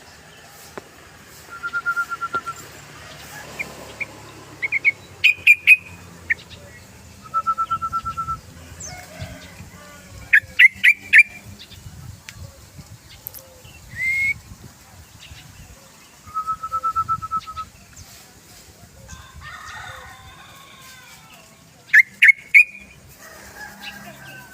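Yellow-vented bulbul singing in repeated phrases: short, even trills of about a second alternate with quick bursts of three or four loud, clear notes, and there is one rising note about halfway through.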